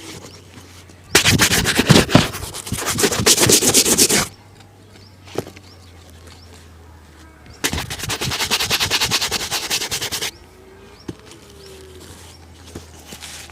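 Shoe brush scrubbed fast back and forth over a shoe in two bursts of about three seconds each, the bristles making a rapid, even run of strokes. A couple of single knocks fall in the quiet gap between.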